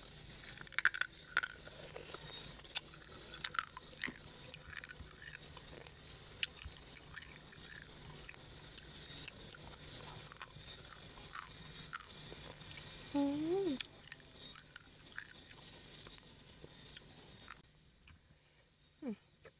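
Close-up chewing and biting of spicy papaya salad with salted crab, with frequent sharp crunches and wet clicks. A brief pitched hum comes about two-thirds of the way through.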